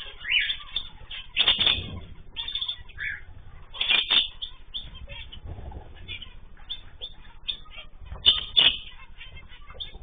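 Small aviary birds, zebra finches and cockatiels, fluttering their wings in short flurries amid repeated short chirping calls. Louder flurries come about a second and a half in, at about four seconds, and just after eight seconds.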